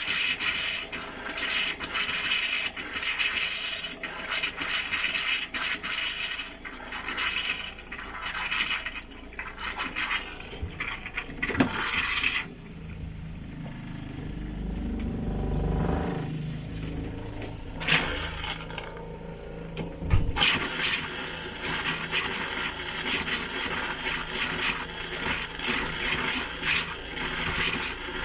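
Pink RV antifreeze and water running and sputtering out of a travel trailer's plumbing fixtures as it is pushed through the water lines again, with a lower rushing stretch about halfway through. It is a final pass to make sure all the water is out of the lines.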